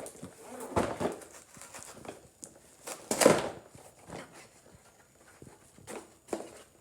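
Intermittent handling noises of plastic toy parts and packaging: a few short rustles and knocks, the loudest about three seconds in.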